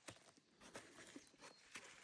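Near silence with a few faint crackles of forest-floor litter, about a second apart.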